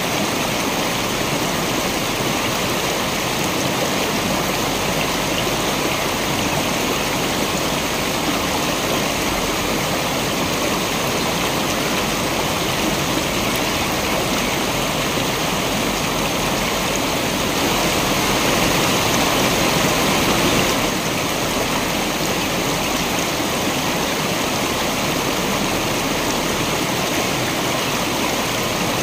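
Waterfall water rushing in a steady, even roar of falling water, swelling a little louder for a few seconds past the middle.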